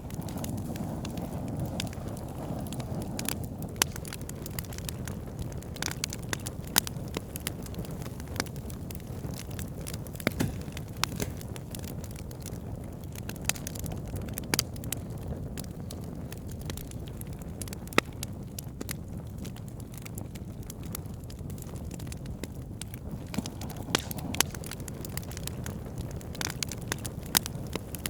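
Campfire burning: a steady low rush of flame with sharp, irregular crackles and pops from the burning wood, a few of them louder than the rest.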